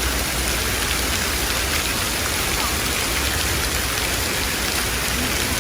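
Hail and rain falling hard: a dense, steady patter of many small hits, over a steady low rumble.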